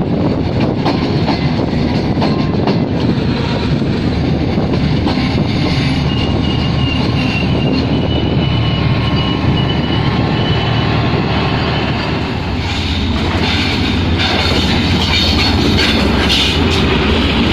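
Train running on the rails at speed: a steady, loud rumble of wheels and cars, with a thin high wheel squeal in the middle and clicks near the end.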